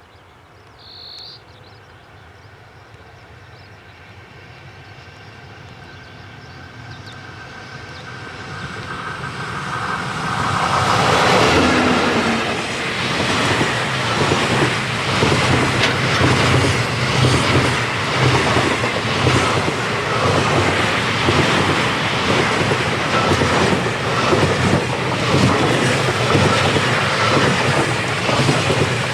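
Freight train approaching and passing close by: a rising rumble that grows for several seconds, a falling pitch as the front of the train goes past, then loud wheel clatter over the rail joints as the wagons roll by. A brief high note sounds about a second in.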